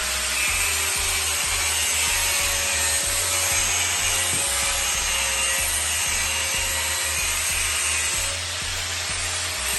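Abrasive power tool working steadily with a rasping hiss, with background music underneath.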